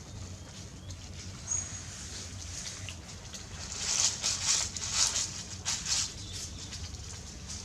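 A small animal's faint, high, short squeak, then a cluster of short, high, noisy sounds between about four and six seconds in.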